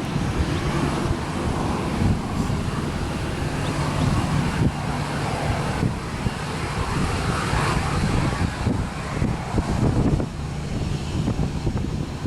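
Airliner engines running steadily as the aircraft taxis.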